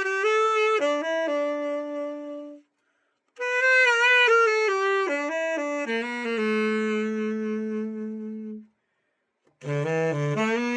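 Cannonball Scepter tenor saxophone played solo as a test after a full repair. It plays three short melodic phrases, each settling onto a long held note, with two brief, abrupt breaks of silence between them.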